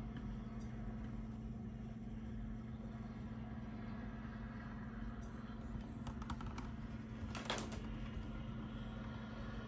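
Steady low background hum with a constant tone, and a few faint clicks and a brief rustle about six to eight seconds in.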